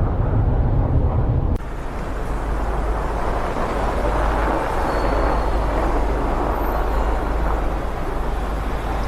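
Vehicle noise: a steady low rumble under an even rushing noise, changing abruptly about a second and a half in.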